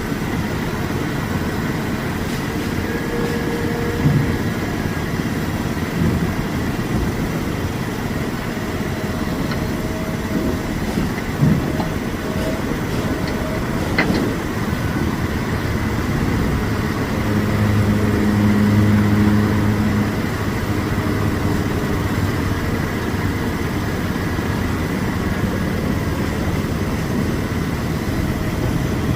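Diesel dump trucks running at a dirt-hauling site, a steady low rumble, with one truck's engine growing louder for a few seconds about two-thirds of the way through. A single sharp knock sounds near the middle.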